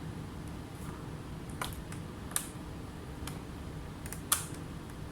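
Four or five sharp, light clicks at uneven intervals over a steady low hum; the last one, near the end, is the loudest.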